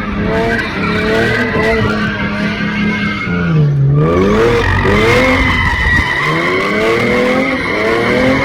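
A V6 car spinning its tires in a burnout or donut, with a steady high tire squeal. Its engine revs up and down over and over, dropping sharply about halfway through before climbing again.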